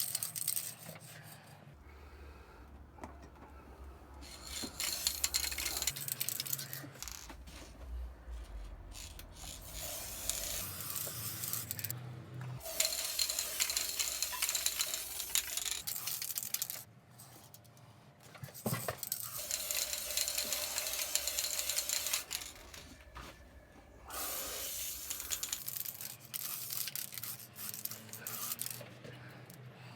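Aerosol spray can of primer spraying in several bursts of hiss, each lasting a few seconds, with short pauses between them.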